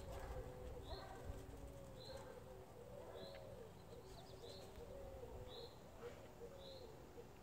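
Faint birdsong: one bird repeats a short high note about once a second while a lower, wavering call runs underneath.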